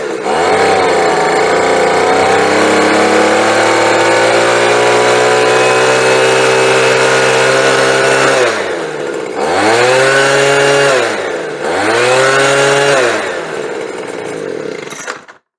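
Small two-stroke leaf blower engine held at full throttle, its pitch creeping steadily higher for about eight seconds. It then drops to idle and is revved up twice before settling back to idle. It runs wide open smoothly once the carburetor's high-speed screw has been given more fuel, without the earlier stutter.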